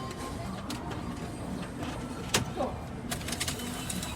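A few scattered sharp clicks and light handling noises at a Seven Bank cash machine over a steady background hum, the strongest click a little past halfway and a small cluster of clicks about three seconds in.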